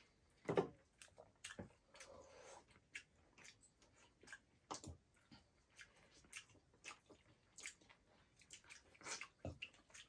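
Close-up chewing and biting while eating pork leg curry: faint, irregular wet mouth clicks and smacks, a few a second, with a louder bite about half a second in and another near five seconds.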